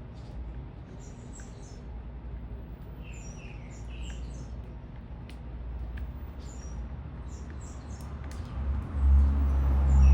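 Small birds chirping at a feeder in short clusters of high calls, over a steady low traffic rumble. Near the end a vehicle passes and its low rumble becomes the loudest sound.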